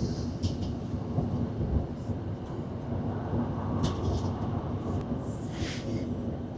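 Steady low rumble of a Class 156 diesel multiple unit running between stations, heard inside the passenger saloon, with a few brief higher hisses and clicks about four and six seconds in.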